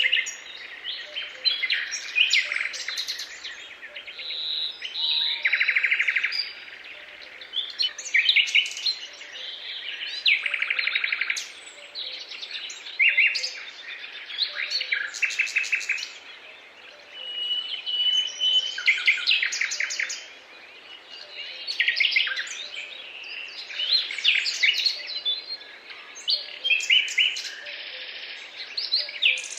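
Several songbirds singing and calling at once: overlapping chirps, whistles and rapid trills, without a break.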